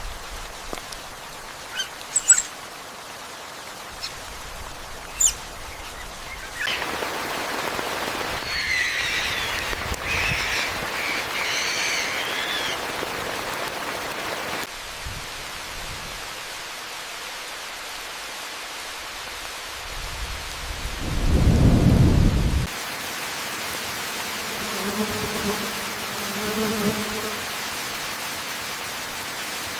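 Steady rain hiss, with a few sharp drip-like clicks early on, a run of bird chirps about a third of the way in, and a low rumble of thunder about two-thirds through.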